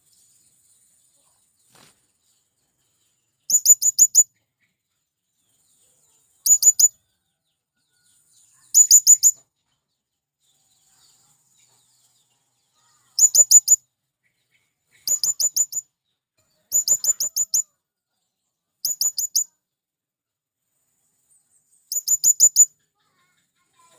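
Male blue-crowned hanging parrot (serindit) calling. It gives short, very high-pitched bursts of four or five quick, sharp notes, eight bursts in all, separated by gaps of one to four seconds.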